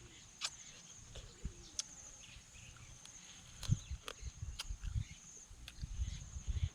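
Close-up eating noises: sharp clicks and cracks of raw blue swimming crab shell being bitten and pulled apart, with low chewing thuds thickening in the second half. A steady high-pitched hum sits behind them.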